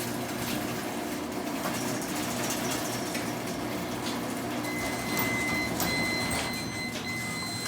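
Garage door openers running as the doors close: a steady motor hum with the rattle of the drive and door. An intermittent high beeping starts about two-thirds of the way in.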